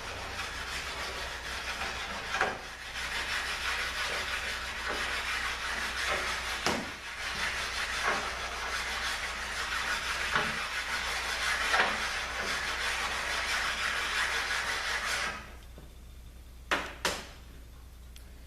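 Valve-body half of a ZF 6HP26 automatic transmission being flat-sanded on a stone: a continuous gritty rubbing with a soft knock every couple of seconds. It stops about fifteen seconds in, followed by two sharp clicks.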